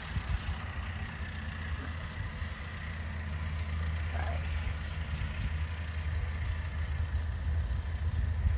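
Tractor engine running with a steady low drone that grows gradually louder.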